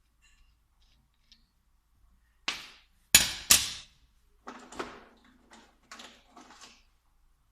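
Hard knocks and clatter of tools or metal parts handled on a workbench: two loud knocks about three seconds in, then several lighter clatters.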